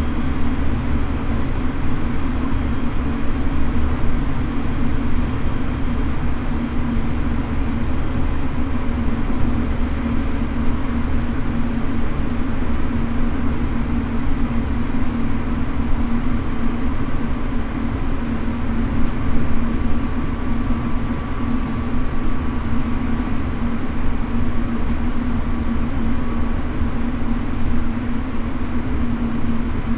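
Chiba New Town Railway 9100 series electric train running at steady speed, heard from inside the passenger car. A steady rumble of wheels on rail, with faint steady tones above it.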